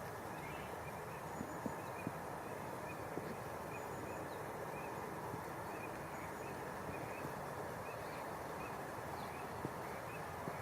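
Steady rush of river water, with faint short high chirps repeating throughout and a few soft ticks.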